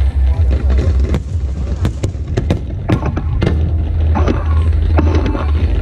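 Aerial fireworks display bursting: repeated sharp bangs at irregular intervals over a continuous low rumble.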